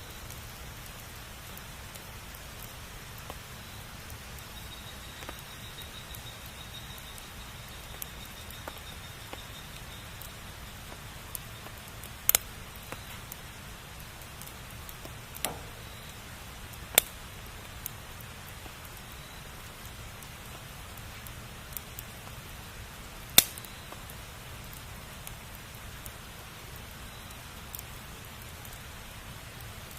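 Bonfire burning with a steady hiss and scattered sharp crackles, a few of them loud pops.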